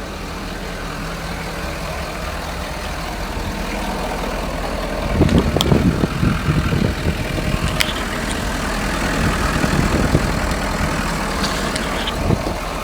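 2011 Ford F-350 Super Duty's 6.7L Power Stroke turbodiesel V8 idling, heard at the tailpipe. From about five seconds in, the low rumble grows louder and uneven for several seconds, with a few sharp clicks.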